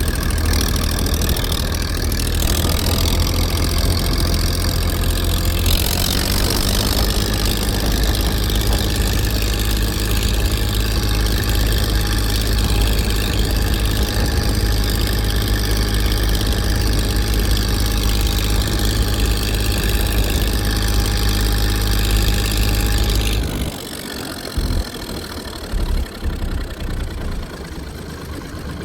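Tractor engine running steadily. About 23 seconds in the low engine sound stops abruptly, leaving a few scattered knocks and a quieter background.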